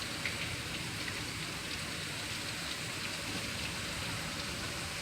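Heavy rain falling hard and fast in a steady hiss, with water pouring off overflowing guttering.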